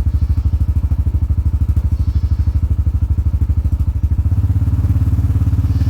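Side-by-side utility vehicle's engine running with an even, rapid low pulse. About four seconds in the engine note rises and gets louder, as if it is throttled up.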